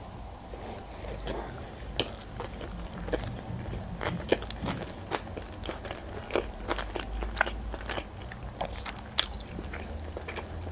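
A mouthful of sushi roll being chewed close to the microphone, ASMR-style, with irregular sharp wet clicks and crunches.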